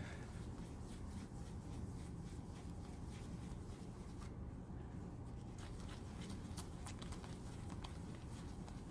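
Cloth rag wiping dried plastic polish off the clear plastic window of a toy car: faint, scratchy rubbing strokes, with a brief lull about four seconds in.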